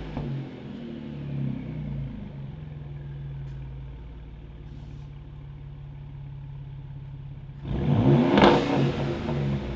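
Twin-turbo 3.5-litre EcoBoost V6 of a Ford Raptor, through a Corsa stainless cat-back exhaust, settling back to a steady idle after a rev. It idles for several seconds, then a sharp throttle blip near the end revs it up and lets it fall back.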